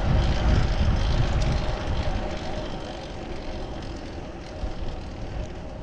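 Road noise heard from a moving bicycle: the rumble of a passing motor vehicle, loud over the first two seconds and then fading, over steady wind rumble on the chest-mounted action camera.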